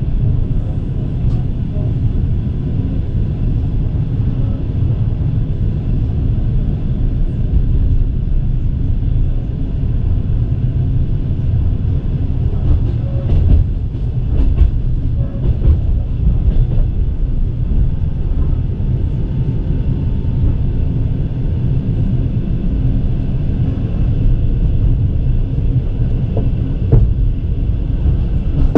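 Russian passenger train coach running at speed, heard from inside the coach: a steady low rumble of the wheels on the rails, with a few sharper knocks a little before the middle and again near the end.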